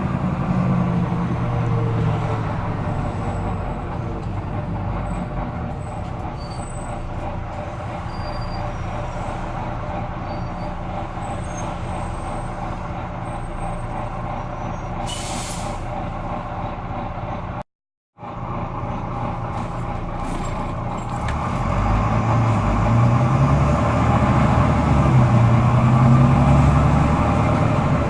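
Volvo B9TL double-decker bus's six-cylinder diesel heard on board, engine dropping in revs at first, with a short air-brake hiss about halfway through. After the sound cuts out for a moment, the engine revs up hard with a rising pitch over the last several seconds: the over-revving this bus is known for.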